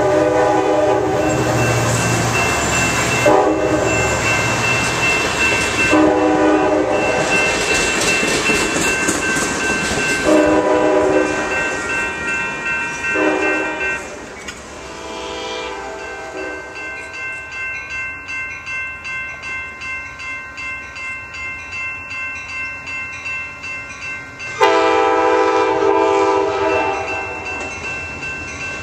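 Locomotive multi-chime air horn sounding a series of blasts as a train passes, several short and long blasts, then a long blast near the end. In the quieter stretch between them, the wheels clack rhythmically over rail joints.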